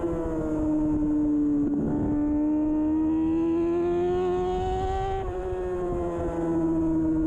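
2013 Kawasaki Ninja 636's inline-four engine running hard on track: its pitch falls over the first couple of seconds, breaks briefly about two seconds in, then climbs slowly, dips about five seconds in and holds steady.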